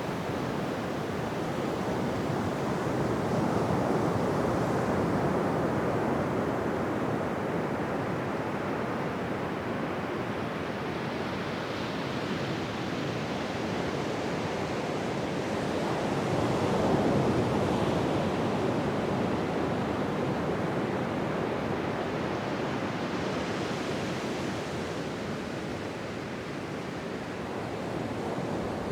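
Ocean surf on a beach: a continuous rush of waves breaking and washing, swelling louder about 4 and 17 seconds in and easing between.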